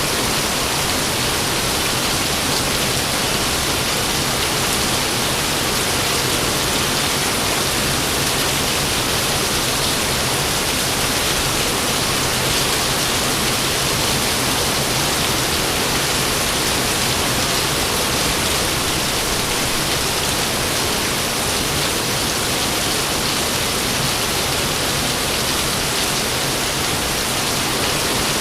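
Steady rain falling, an even hiss with no thunderclaps.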